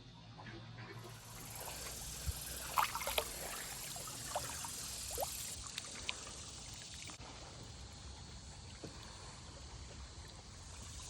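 Water trickling and sloshing, with a few light knocks and splashes scattered through it.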